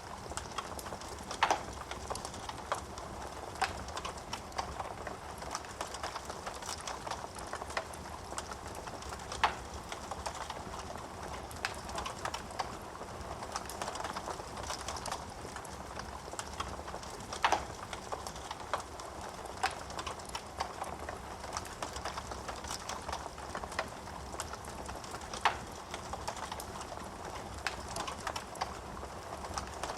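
Wood fire crackling in a fireplace: a steady patter of small snaps over a soft hiss, with a louder pop about every eight seconds.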